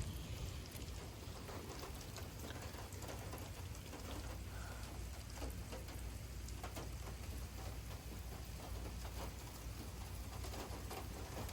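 Rain falling steadily, with many separate drops pattering close by, over a low steady rumble.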